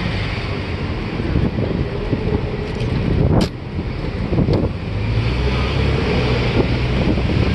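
Wind rumbling on the microphone over city street traffic, with a sharp click about three and a half seconds in and a smaller one a second later.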